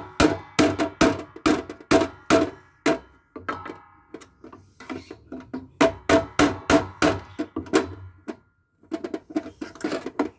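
Repeated hammer blows on the inverter's metal parts, each strike ringing briefly, about two or three a second with a couple of short pauses, as a stuck part is knocked loose.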